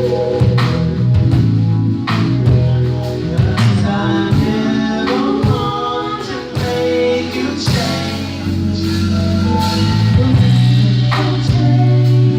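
Live band playing a slow soul song: drum kit keeping time over held bass notes, with a voice singing over it.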